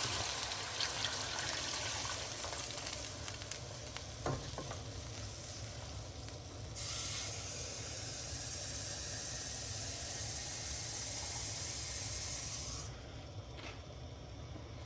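About 1.5 to 2 litres of water poured into a hot pot of browned chicken, hissing and sizzling steadily as it hits the hot pan. The hiss dips, picks up again a little before halfway, and drops off sharply near the end.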